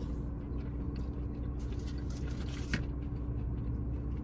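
Someone eating grilled corn on the cob, with faint mouth clicks and smacks about a second and a half in and again near three seconds, over a steady low hum.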